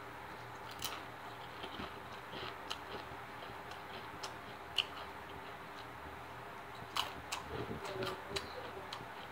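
Crunching on Doritos tortilla chips while chewing: scattered crisp crunches and clicks, more of them close together about seven to eight seconds in, over a faint steady hum.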